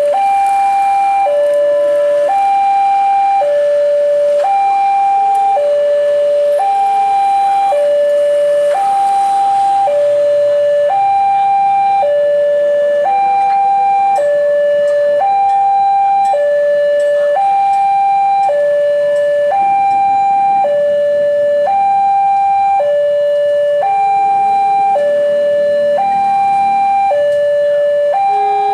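Electronic two-tone warning alarm, alternating steadily between a higher and a lower tone about once a second each.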